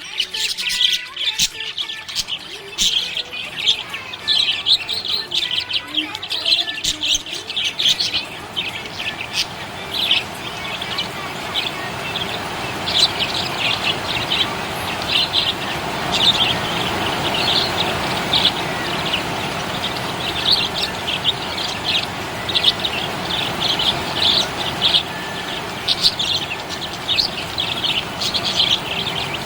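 Budgerigars chirping and warbling in a rapid, continuous stream of short high chirps. From about eight seconds in, a steady rushing noise rises beneath them.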